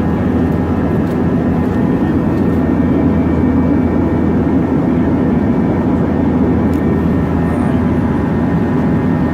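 Steady cabin drone of an Airbus A321 airliner in flight: its jet engines and the airflow heard from inside the cabin, a low, unbroken rumble with faint steady tones over it.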